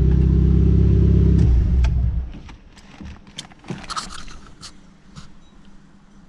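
Mitsubishi Starion / Chrysler Conquest's turbocharged G54B 2.6-litre four-cylinder engine idling steadily, then switched off about two seconds in. After that come a few light clicks and jingling rattles.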